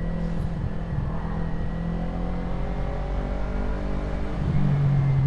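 Kawasaki Ninja 250R parallel-twin engine, heard from the rider's helmet, with its revs easing slowly down. About four and a half seconds in it steadies into a louder, even note. A steady hiss runs underneath.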